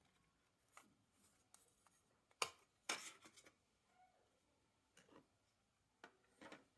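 Sparse small clicks and brief scrapes of objects being handled, the loudest a sharp click about two and a half seconds in followed by a short scraping rattle.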